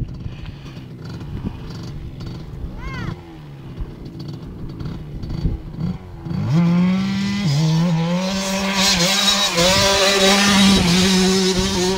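Motocross bike engine: a low rumble at first, then about halfway in the revs climb sharply and hold high and loud, with a brief dip in pitch about a second after the climb.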